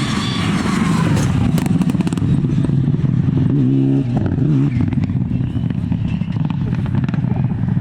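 Four-wheel-drive rally car engine running hard at high revs as the car drives through a stage. The engine note steps and wobbles briefly about halfway, with a scatter of sharp cracks early on.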